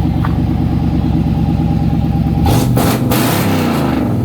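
Freshly cold-started Chevy car engine idling, then revved hard about two and a half seconds in, the pitch climbing and then falling back. The rev is loud.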